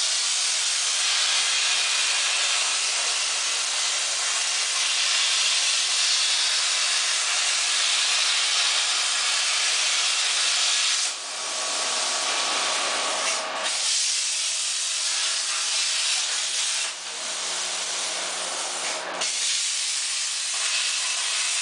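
CNC plasma torch cutting sheet metal: a loud, steady hiss that breaks or changes briefly a few times in the second half.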